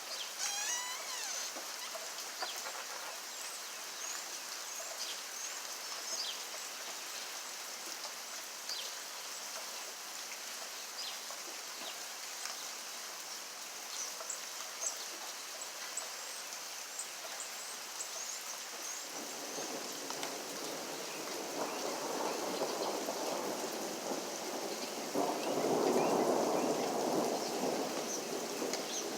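Steady rain falling, with a low rumble of thunder building in the last third and peaking twice before fading.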